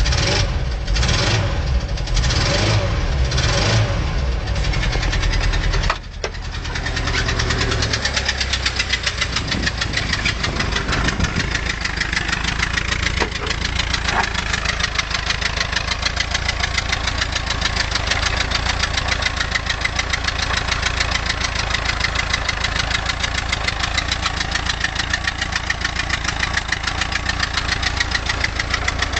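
VW camper van engine idling with no throttle on a cold start, the tickover a bit slow but holding. It runs unevenly for the first few seconds, dips suddenly about six seconds in, then settles into a steady, even idle.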